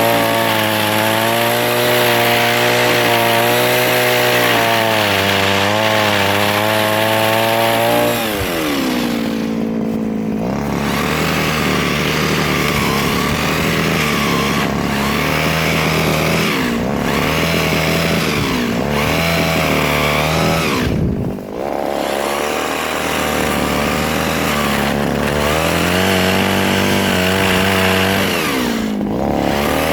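Mini chainsaw running at high speed, then dropping to lower revs about eight seconds in, its pitch rising and falling after that.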